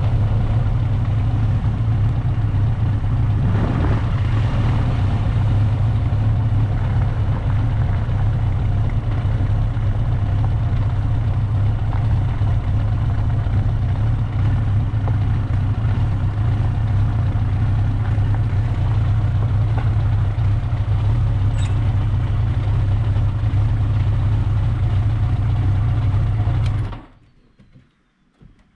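Motorcycle engine idling steadily, then switched off a couple of seconds before the end, the sound cutting off suddenly.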